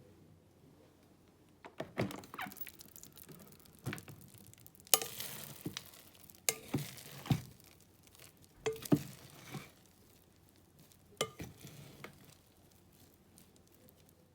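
Food-preparation sounds: a utensil knocking and scraping against cookware, in scattered clicks and short scrapes, busiest in the middle.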